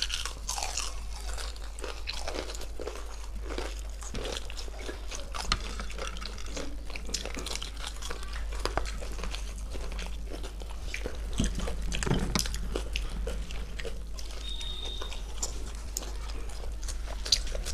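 Two people eating by hand, biting and chewing crispy fried chicken and raw cucumber slices close to the microphone, with frequent crunches and small irregular mouth clicks.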